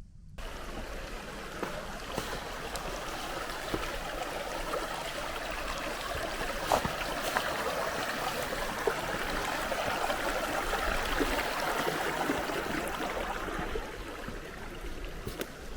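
Mountain stream running over rocks: a steady rush of water that starts suddenly, swells through the middle and drops away near the end, with a few light clicks.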